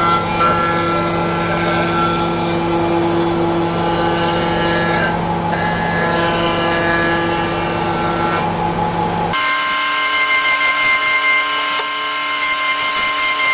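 Woodworking power tool running steadily. About nine seconds in it changes abruptly to a different, higher-pitched machine sound with almost no low end.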